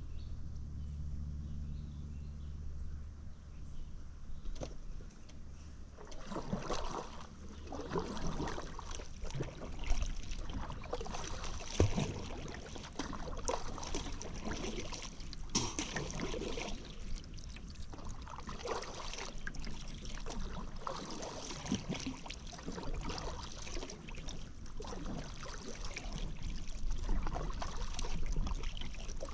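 Paddle strokes dipping into and pulling through river water, splashing and dripping, a stroke about every second or two starting about six seconds in. Before that, a low steady hum.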